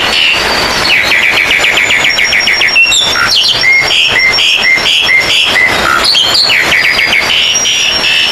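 Several Oriental magpie-robins singing at once in a loud, dense chorus of rapid repeated whistled notes and trills, with a fast trill about a second in and a run of evenly spaced notes in the middle.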